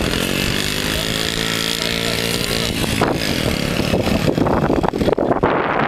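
Minibike engine running at high revs, its pitch sagging slightly over the first couple of seconds, then turning rougher; wind buffeting the microphone near the end.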